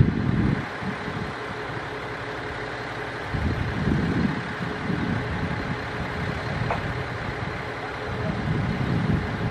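Aoimori Railway electric train drawing closer in the distance, heard as a steady rumble and hiss. Low rumbling swells come and go three times.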